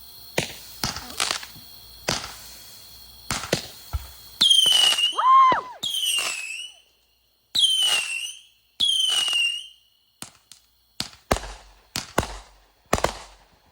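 Consumer fireworks going off: a series of sharp bangs and crackles, with four descending whistles of about a second each in the middle, then more quick bangs near the end. A person's cheer of "Woo!" cuts in about halfway through.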